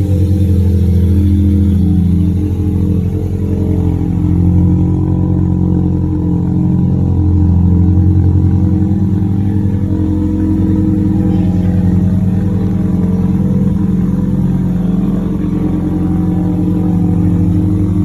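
Mazda RX-7 FD's twin-rotor 13B rotary engine running at low, fairly steady revs as the car crawls along, with small rises and falls in throttle.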